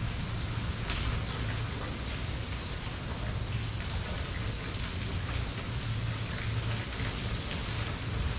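Steady rain falling and pattering on surfaces, with individual drops ticking through it and a constant low rumble underneath.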